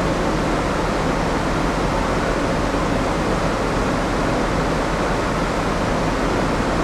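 Steady loud drone of a moored ship's interior air-conditioning and machinery: an even rushing noise over a low, constant hum.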